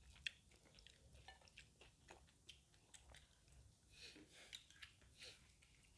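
A person chewing food with close mouth sounds: irregular soft clicks and wet smacks, with one sharper click just after the start.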